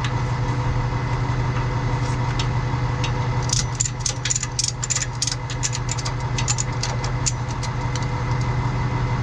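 Truck engine idling steadily. A little over three seconds in, a quick run of sharp clicks and rattles lasts about three seconds over the idle.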